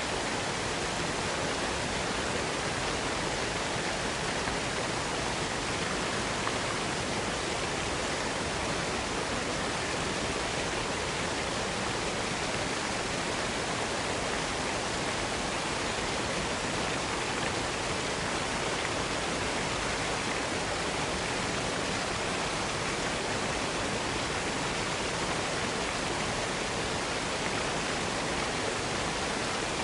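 Cascading waterfall: a steady, unbroken rush of falling water with no change in level.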